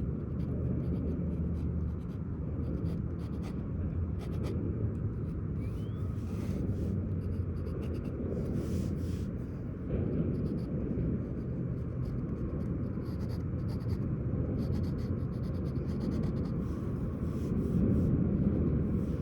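Ink pen scratching across paper in short strokes while sketching, over a steady low rumble.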